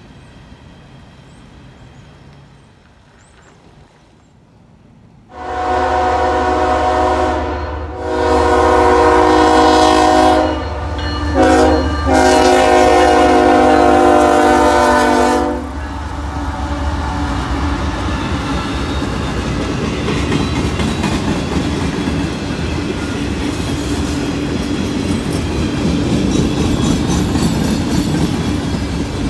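CSX freight locomotive's multi-tone horn sounding about five seconds in, in four blasts (long, long, short, long), the standard grade-crossing signal. As the horn stops, the locomotive and its freight cars roll past close by, wheels clacking steadily over the rail joints.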